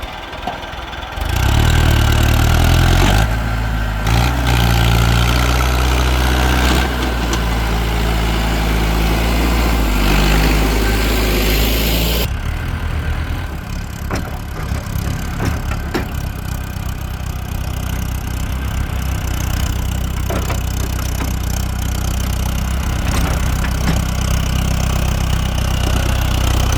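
Heavy diesel machinery engines from the excavator and tractors, running steadily and getting louder about a second in. About halfway through, the sound changes to a different, even engine note.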